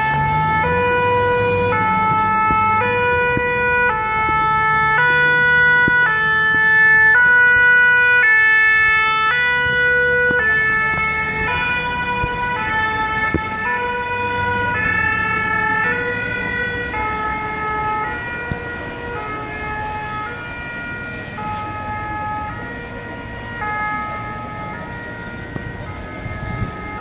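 Two-tone emergency vehicle siren of the French kind, alternating between two pitches about once a second. It grows loudest in the first third and then fades as the vehicle moves away, over low traffic rumble.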